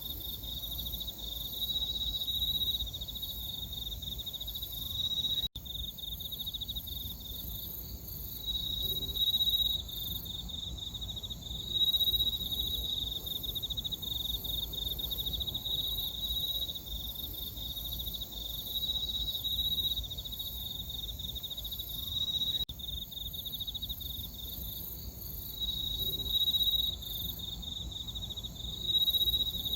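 Crickets chirping in a steady, high-pitched pulsing chorus that swells louder every few seconds, with a fainter, higher chirring above it.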